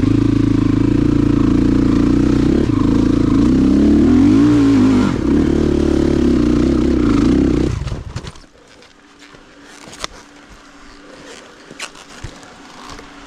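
Dirt motorcycle's single engine running hard under throttle, its pitch wavering up and down around the middle, then stopping about eight seconds in, after which only faint clicks and rustling remain.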